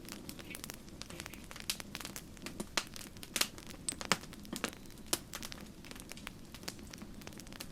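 Wood campfire crackling: irregular sharp pops and snaps, several louder ones in the middle, over a steady low rumble of burning.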